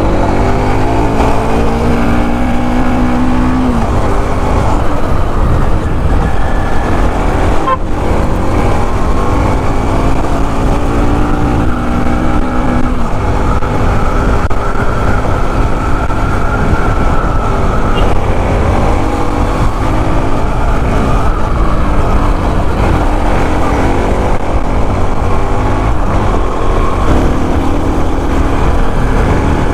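Bajaj Pulsar NS200 single-cylinder motorcycle engine and exhaust under way, the pitch climbing as it revs up through the gears and dropping at each shift, several times over, with wind and road noise on the helmet microphone.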